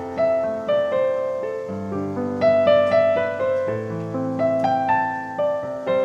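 Background music: a solo piano playing a gentle melodic passage, notes struck one after another and left to ring.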